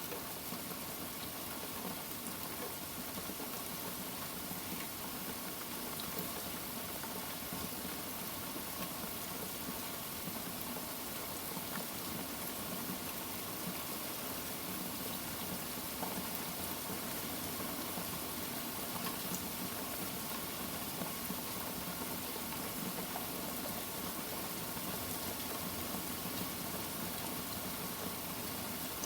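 Steady rain falling, an even hiss with no thunder clap or rumble standing out.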